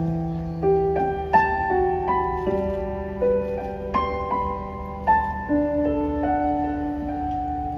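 Slow piano introduction to a ballad: sustained notes and chords struck one after another, each left ringing.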